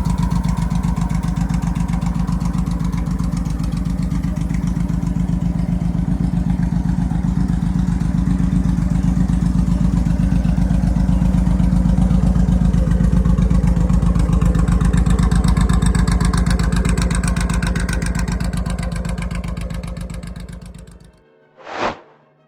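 A motorcycle engine runs steadily and loudly with rapid, even firing pulses, then fades out near the end. A brief swoosh follows.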